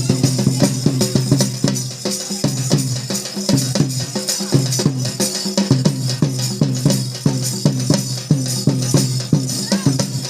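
Drum-led percussion music playing a fast, steady beat over a held low tone, the accompaniment to a tribal folk dance.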